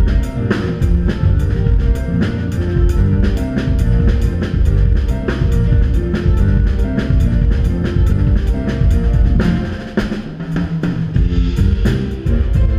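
Instrumental band music: drum kit keeping a steady beat under electric bass, guitar and keyboard, with a brief drop in the drums about ten seconds in.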